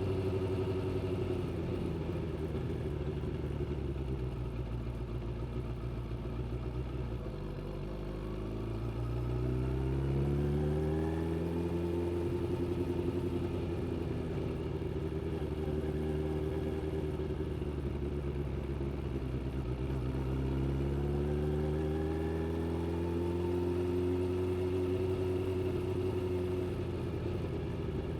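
Suzuki GSX600F motorcycle's inline-four engine running under way; the engine note climbs twice as the bike accelerates, about eight and twenty seconds in, and holds steady in between.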